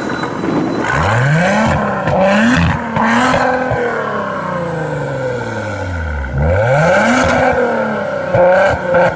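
Car engine accelerating hard through the gears: the revs climb, dip briefly at several quick upshifts, then fall away, before a second run of hard acceleration with more shifts near the end.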